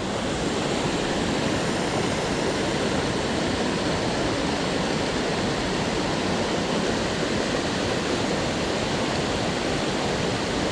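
Steady rush of water pouring over a falls on a trout river, an even noise that holds constant throughout.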